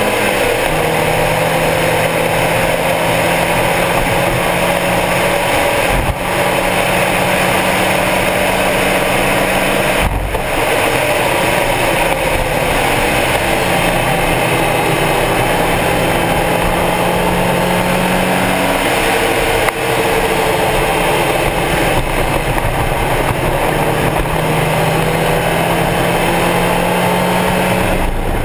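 Stock Mazda Miata's four-cylinder engine driven hard on a race track, revving up and down. There are brief breaks in the sound, like gear changes, about 6 and 10 seconds in and again near 20 seconds.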